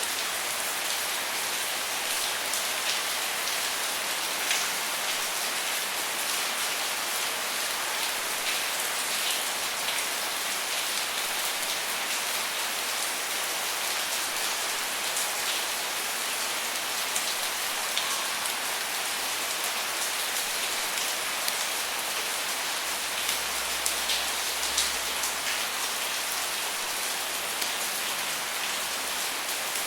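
Steady rain falling on a surface, an even hiss with scattered sharper drop impacts, and a faint low rumble about two-thirds of the way through.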